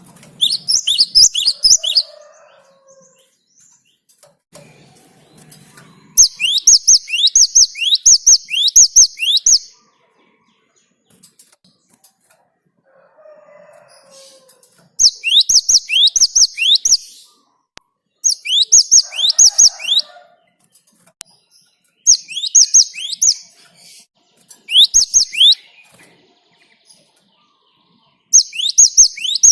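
Gelatik batu (great tit, Parus major) singing a rolling song: bursts of quick, sharp, high notes, each sweeping steeply downward, in phrases of one to three seconds with short pauses between.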